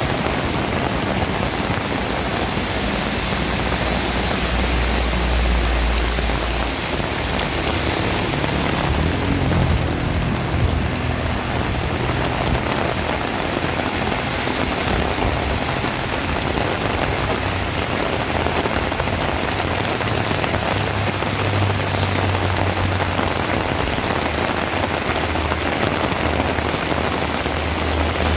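Heavy rain pouring steadily, with a deep low rumble coming and going underneath.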